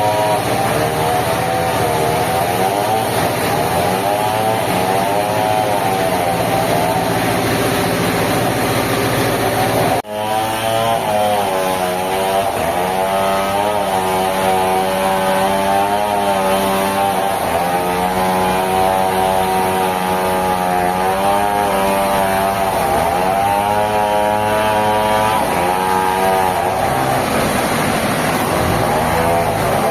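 Sawmill engine running loud, its pitch dipping and rising again and again. The sound breaks off abruptly about ten seconds in and carries straight on.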